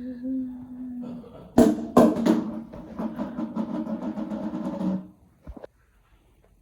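A robot vacuum cleaner falling down stairs: a steady hum cuts off about a second in, then two hard impacts half a second apart and about three seconds of rattling and clattering as it tumbles, stopping abruptly.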